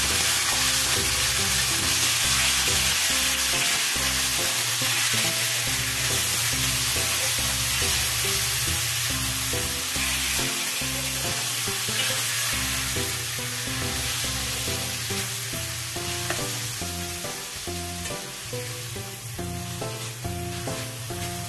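Raw chicken pieces sizzling in hot oil with onion and garlic in a stainless steel pan, turned and scraped with a plastic spatula; the sizzle eases off a little toward the end. Background music plays underneath.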